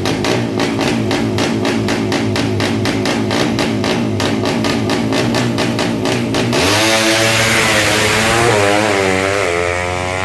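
200cc underbone drag bike engine held at high revs on the start line with a rapid, even stuttering beat. Then, about six and a half seconds in, it launches: the engine sound jumps louder and its pitch climbs and drops repeatedly as it shifts up through the gears.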